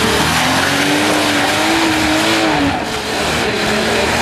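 Nissan Patrol 4x4's engine revving hard under load as it climbs a steep muddy bank, its pitch rising for about two and a half seconds, dropping briefly, then rising again.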